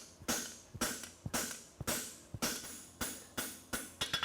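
Hand hammer striking hot steel on an anvil, about two blows a second, each blow ringing briefly. The farrier is upsetting (bumping up) the toe of a horseshoe bar to build material for a toe clip.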